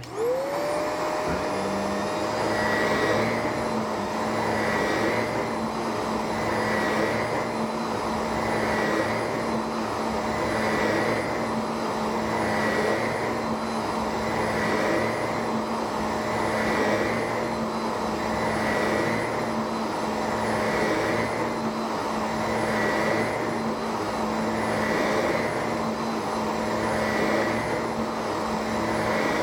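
Shark vacuum cleaner switching on, its motor spinning up to a steady whine within half a second and running, with a faint swell in the sound about every two seconds.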